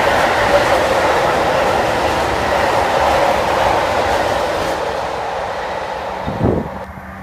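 Freight train of covered wagons rolling past at speed, a steady rush of wheels on rail that fades away near the end.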